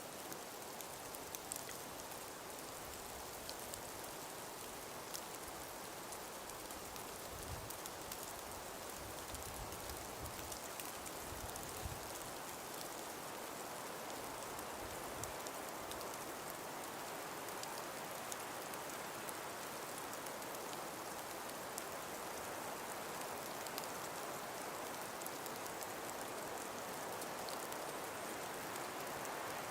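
Calm winter breeze through ice-covered forest: a steady, even hiss with scattered faint ticks, and a low rumble of gusts between about a quarter and half of the way through.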